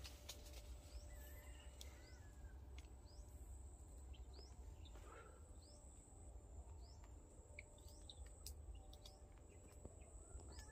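Near silence with faint outdoor ambience: a bird repeating a short rising chirp roughly once a second, over a steady high insect whine and a low rumble.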